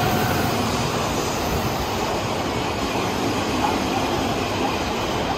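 Odakyu 8000 series electric train (coupled sets 8252+8052) running through a station without stopping. Steady wheel and running noise on the rails, easing off slightly near the end as the last cars go by.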